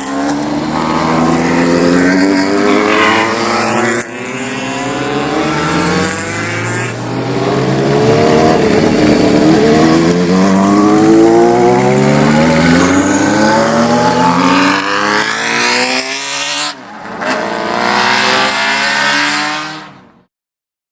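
Inline-four motorcycle engines accelerating hard, the pitch climbing through each gear and dropping back at every upshift, over and over. The sound breaks off abruptly a few times and fades out about a second before the end.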